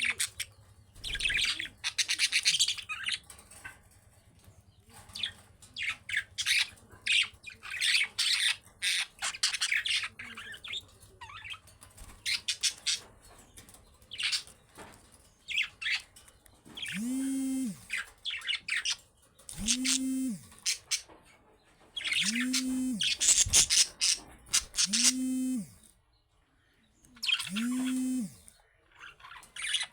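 Budgerigars chirping and warbling in short, quick bursts. From about halfway through, a low buzzing sound with high chirring above it repeats about every three seconds.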